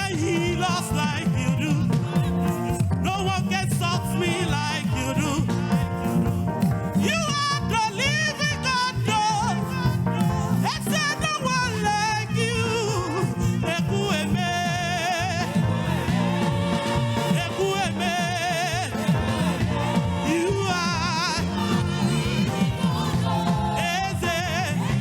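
Live gospel praise music from a church band over a steady bass and beat, with a voice wavering in long vibrato-laden lines.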